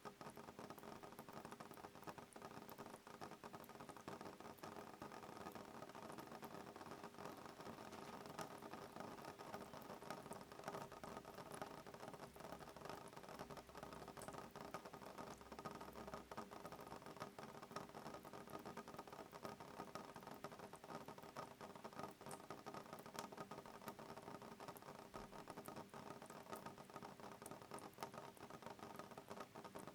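Soft rain on a window pane: a steady, fine patter of many small drops ticking on the glass.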